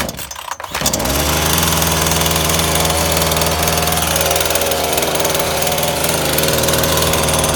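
Titan two-stroke petrol chainsaw engine catching about a second in after a pull on the starter cord, then idling steadily with the choke off as it warms up from a cold start.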